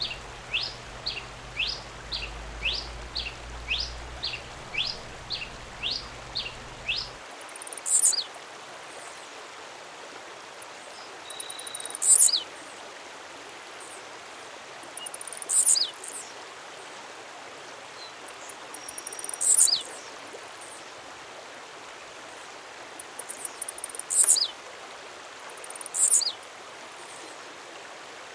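Songs of two different birds in turn. First comes a series of short rising whistled notes, about two a second, which stops about seven seconds in. Then a very high, brief call with a falling tail repeats every three to four seconds.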